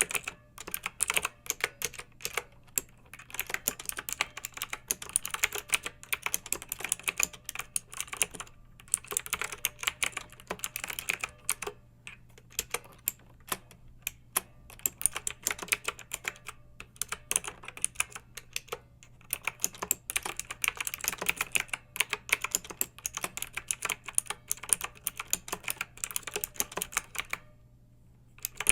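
Clicky mechanical keyboard typed on in quick runs of keystrokes, with short pauses between runs and a pause of about a second near the end.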